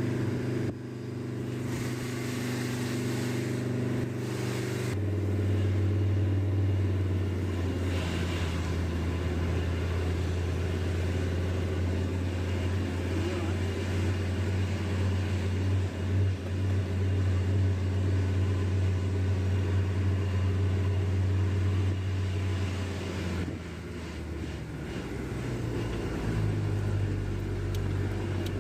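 Car engine and tyre noise heard from inside a moving car: a steady low drone whose pitch shifts about five seconds in and rises again near the end as the car changes speed.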